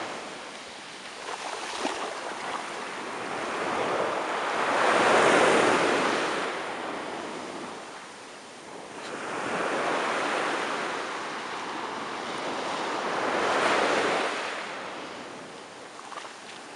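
Ocean waves breaking and washing up the beach in slow surges, each swelling and fading over a few seconds, with some wind on the microphone.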